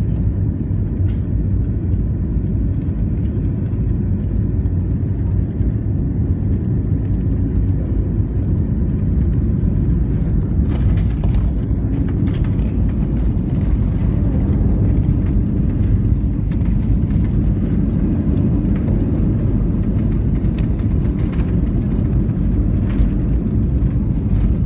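Cabin noise inside an Airbus A321 on approach: a steady, loud low rumble of engines and airflow, with a few faint rattles around the middle and near the end.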